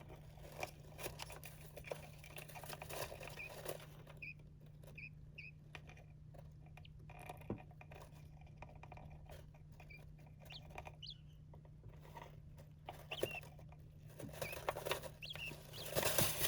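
Small birds scratching and bathing in a tray of loose rice husks: a soft, irregular rustling and pattering of husks, with a few short, high chirps.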